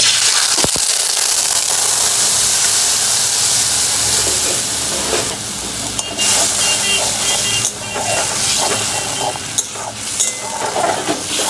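Ginger paste tipped into hot oil in a metal kadai: it hisses loudly at once and keeps sizzling, the hiss easing off as it fries. From about halfway a flat metal spatula stirs and scrapes against the pan.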